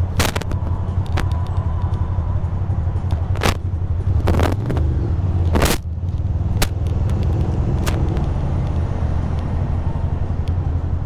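2006 Ducati Monster 620's air-cooled L-twin running at low revs in stop-and-go traffic, a steady low rumble. Several sharp clicks or knocks come at irregular moments over it.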